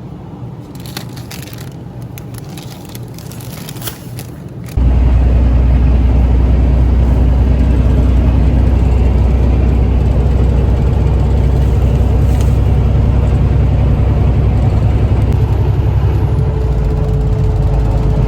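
Loud, steady low drone of a semi-truck's engine and road noise heard from inside the cab, starting suddenly about five seconds in after a few seconds of quieter rustling and clicks.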